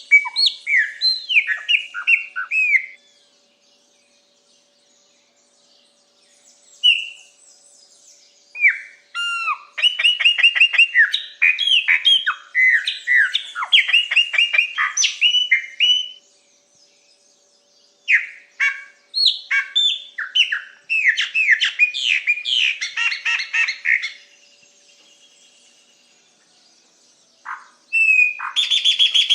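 A songbird singing long phrases of rapid, varied, swooping whistled notes, separated by pauses of several seconds.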